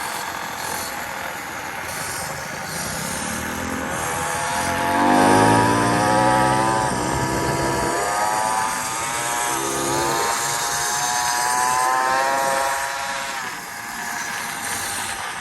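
A small motorbike engine running, its pitch climbing and dipping several times as it revs, loudest about five seconds in, over a steady rush of wind and road noise.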